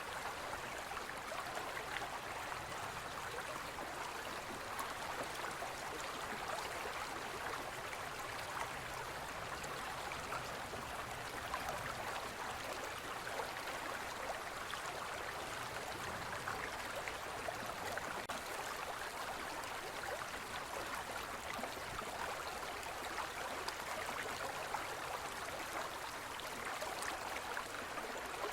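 Gentle forest stream flowing steadily, a continuous babbling rush of water over stones with small splashes.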